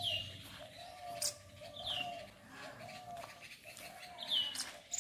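Birds calling: a run of short low notes repeating about twice a second, with three high calls that slur downward and one sharp high chirp.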